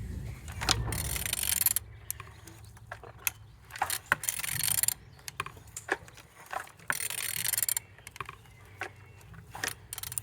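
Engine crankshaft being turned over by hand with a wrench: repeated metallic clicks and scrapes, with a longer hiss about every three seconds. The engine turns freely and shows compression on all cylinders.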